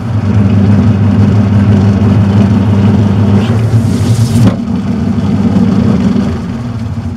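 Turnell & Odell metal lathe running under a cut: a loud, steady machine hum with harsh cutting noise, which changes abruptly and eases a little about four and a half seconds in. The tool has dug in, which the machinist puts down to something not being tightened enough.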